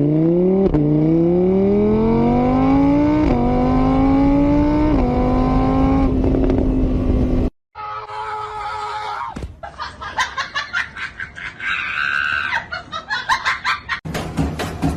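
A car engine accelerating hard through the gears: its pitch climbs, drops back at each of about three gear changes, then holds, before it cuts off abruptly about seven and a half seconds in. After the cut comes a quieter, different mix of tones and rapid pulses.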